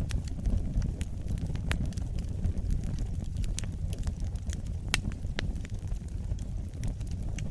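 Wood fire burning: a steady low rush of flames with frequent sharp crackles and pops, a few louder snaps standing out.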